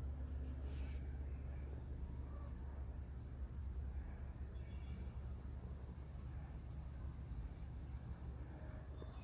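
Steady high-pitched chorus of insects, crickets or similar, over a low steady rumble, with a few faint short chirps.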